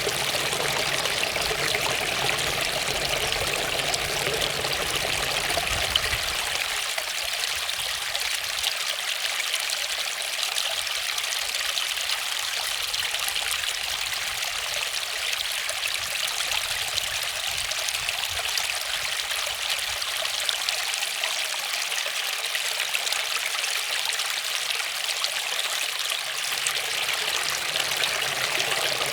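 Waterfall water falling and splashing in a steady, even hiss. The low rumble underneath drops away about seven seconds in and comes back near the end.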